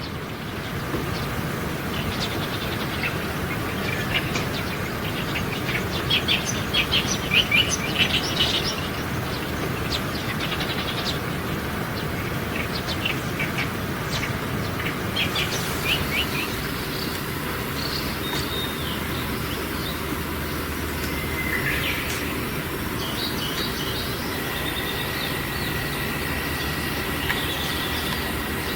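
Small songbirds calling in bursts of quick, sharp chirps, over a steady background hiss.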